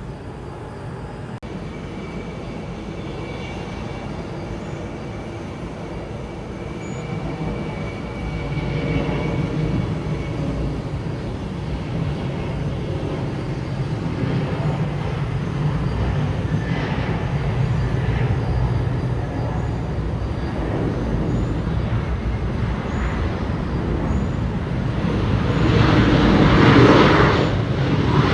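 Jet airliner engines running, a steady rumble with a thin high whine that grows louder and swells to its loudest near the end as the aircraft passes.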